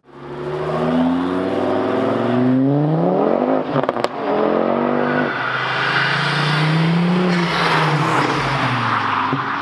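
Tuned Mk2 Ford Focus ST's turbocharged 2.5-litre five-cylinder, with a hybrid turbo and a decat Milltek exhaust, pulling away with the revs climbing. About halfway through, the car passes by at speed with an engine note that rises and falls.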